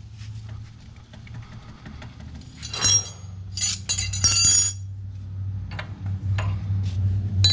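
Metal wrenches clinking and ringing against each other as they are handled, in short clusters about three and four and a half seconds in and once more near the end, over a steady low hum.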